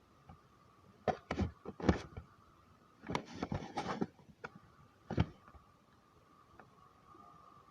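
Vehicle collision: a series of loud sharp bangs and crunches in bursts, a cluster about a second in, a denser stretch of crunching around three to four seconds, and one last bang just after five seconds, over a faint steady high hum.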